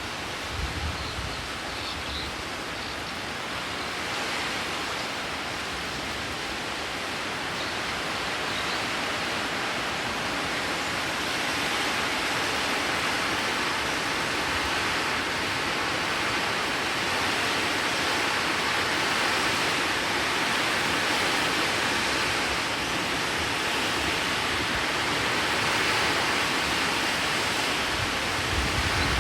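Heavy rain falling as a steady hiss that grows slightly louder over the stretch. Low gusts of wind buffet the microphone briefly, about a second in and again near the end.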